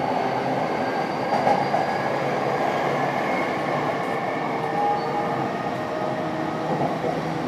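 Running sound heard inside an E233 series electric motor car: a steady rumble of wheels on rail with faint whining tones from the traction motor drive.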